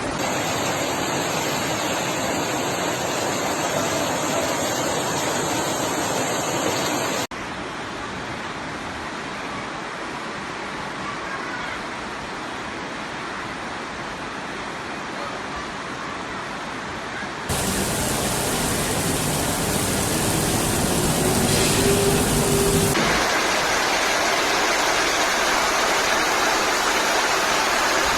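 Floodwater rushing and heavy rain pouring, heard in several successive clips whose sound changes abruptly about 7 and 17 seconds in. A short faint rising tone sounds under the water noise about three-quarters of the way through.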